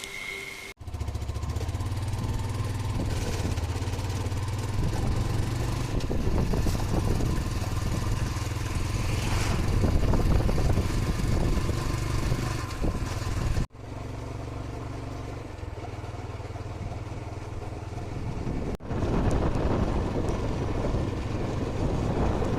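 Hero Honda Karizma's 223 cc single-cylinder engine running steadily while the motorcycle is ridden. The sound breaks off abruptly about a second in, again near 14 seconds and near 19 seconds.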